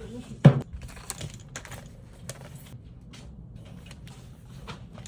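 Typing on a computer keyboard: a run of irregular key clicks, with one much louder thump about half a second in.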